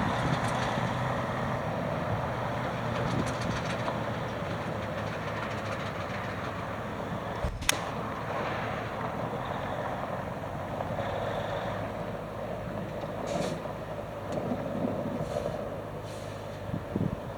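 Freightliner Cascadia semi-truck's diesel engine idling steadily, with a single sharp click about halfway through.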